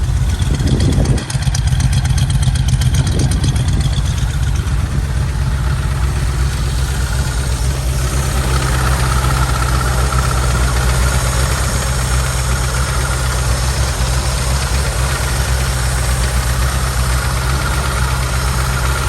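Old Ford F-150 pickup engine idling steadily, running on a newly replaced fuel pump after the truck sat for about 22 years.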